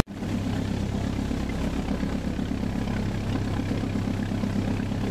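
A passenger ferry's engine running steadily, a low, even drone heard on board.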